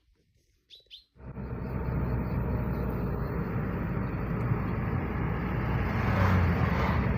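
A few short bird chirps over near quiet, then about a second in a loud, steady rushing noise starts abruptly and carries on.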